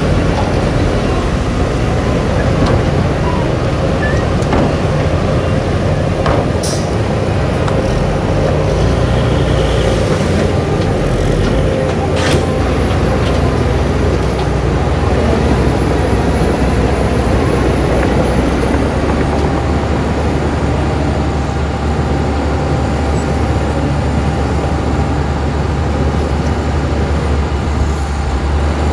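Heavy diesel earthmoving machinery running steadily, with two short metallic knocks about six and twelve seconds in.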